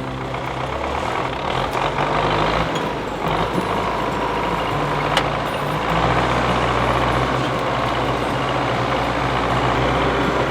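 Belarus MTZ-82 tractor's four-cylinder diesel engine running steadily.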